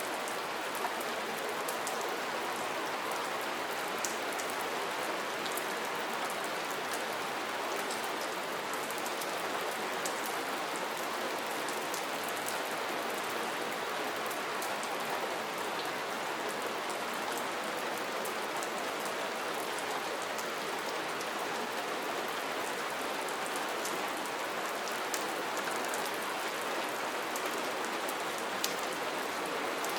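Steady rain falling, an even hiss with many small drop ticks and taps scattered through it.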